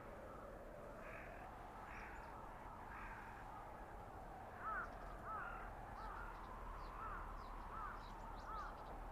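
Winter forest ambience: a steady wind of a blizzard, with a crow cawing three times in the first few seconds, then a quick run of short, repeated bird calls about halfway through.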